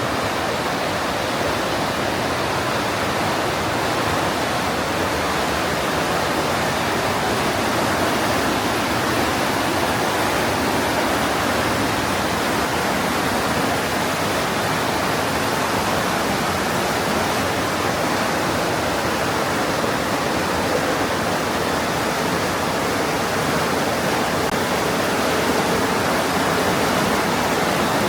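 Mountain river water rushing steadily through a narrow limestone gorge: a loud, unbroken rush.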